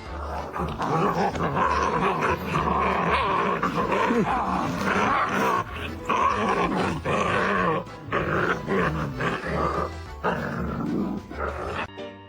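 Background music with a dog growling.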